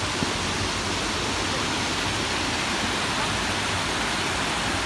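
Steady rushing of flowing river water, an even hiss.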